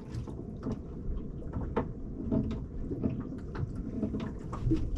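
Scattered light knocks and clicks of fishing gear being handled aboard a small boat, over a low steady rumble.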